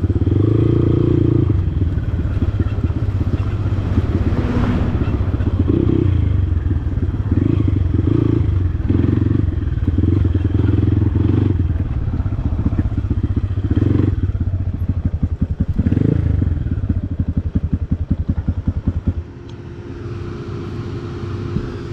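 Dirt bike engine running hard over rough ground, the throttle opening and closing in repeated surges. Near the end it drops to a quieter, steadier note.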